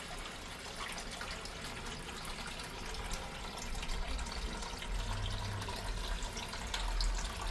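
Water running and trickling out of a 6-gallon utility water heater as it is drained into a container, with small drips and clicks and a low rumble in the second half.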